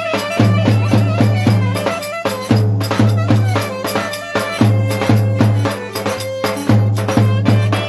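Lively folk dance music from a band, with a heavy, regular drum beat and a melody line over it.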